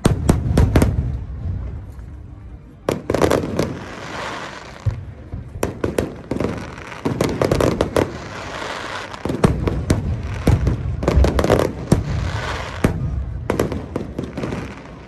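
Fireworks bursting: a long run of sharp bangs, some in quick clusters, mixed with stretches of dense crackling.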